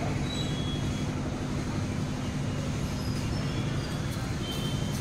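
Steady low rumble of a motor vehicle engine running nearby, unbroken and even in level.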